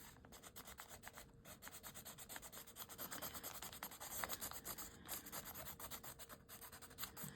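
Faint, scratchy rubbing of a brown Stabilo All pencil drawn across a paper journal page in many quick back-and-forth strokes, colouring in a branch.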